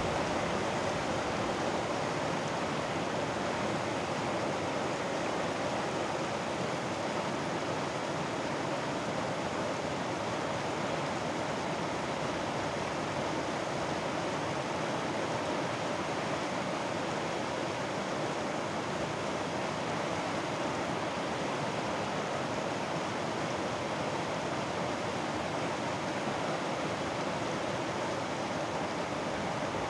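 Mountain stream water flowing over rocks in a steady, unbroken rush.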